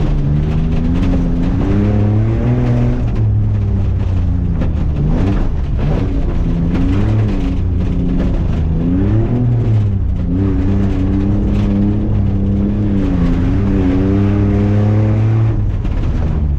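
An off-road vehicle's engine running hard and revving up and down repeatedly, its pitch climbing and falling every second or two.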